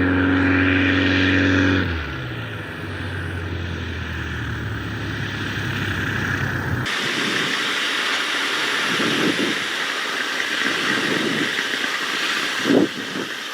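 Carbon Cub light aircraft's engine and propeller droning steadily, heard from inside the cockpit. About two seconds in the pitch drops as power is pulled back, and the drone carries on lower. After a cut partway through, a steady rushing of wind and engine noise takes over.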